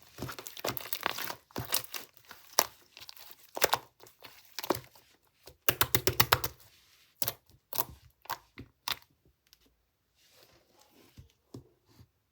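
Crinkly material being handled and torn close up, in irregular bursts of sharp crackles that thin out in the last few seconds.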